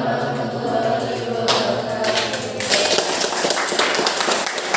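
A class of students answering together in a drawn-out unison chant, the reply to the closing greeting "wassalamualaikum" (wa'alaikumussalam warahmatullahi wabarakatuh). From about one and a half seconds in, a dense clatter of sharp knocks and noise takes over as the voices fade.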